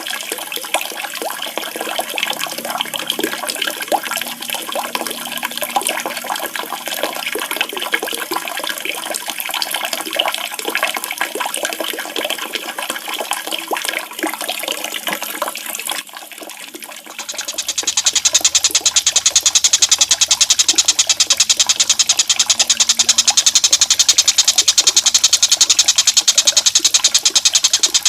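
Running water splashing and trickling for about the first sixteen seconds, a water-therapy track for calming cage birds. After a short drop it switches to a much louder, very fast and even high-pitched pulsing trill of a calling animal that runs on.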